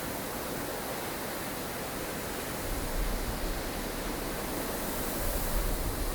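Snowstorm wind blowing as a steady rushing hiss, with a low rumbling gust that swells from about halfway through.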